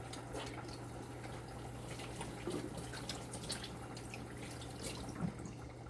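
Faint scattered water drips and small handling ticks at a sink, over a steady low hum.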